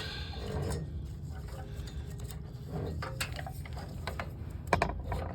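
Light metallic clinks and handling noises from hand work on a snowblower engine, with a sharper knock near the end, over a low steady hum.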